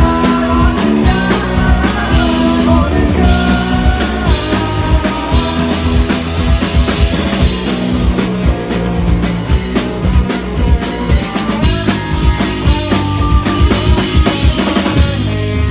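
A live rock band playing a song: a drum kit keeping a steady beat, with electric guitar and bass.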